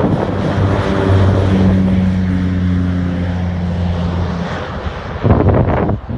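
Cessna 208 Caravan amphibian's turboprop engine and propeller at takeoff power: a steady low propeller hum over engine noise. The hum fades out about four and a half seconds in, and gusts of wind buffet the microphone near the end.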